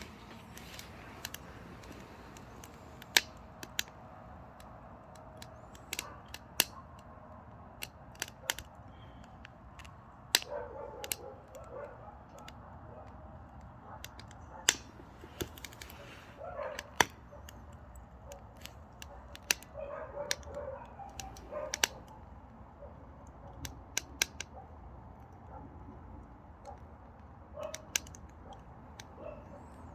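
Mini pine firewood burning in a small wood stove, crackling with irregular sharp pops and snaps, a few much louder than the rest, over a faint steady fire hiss.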